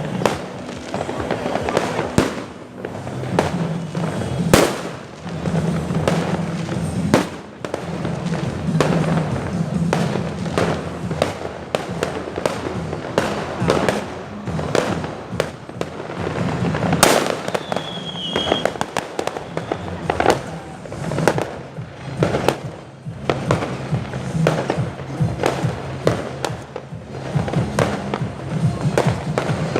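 Fireworks going off in a rapid, irregular string of bangs, with two sharp loud ones about four seconds in and again around seventeen seconds.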